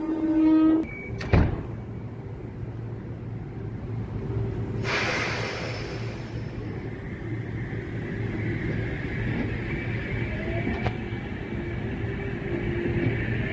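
Electric passenger train standing at the platform: a short pitched tone at the start, a sharp knock about a second in, a burst of air hissing about five seconds in, then the steady hum of the stationary train.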